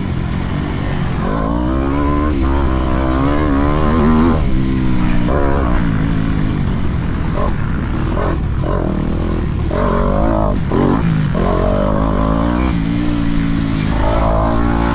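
Motocross bike engine revving hard, its pitch climbing and dropping again and again as the throttle is worked and the gears change, over a constant low rumble.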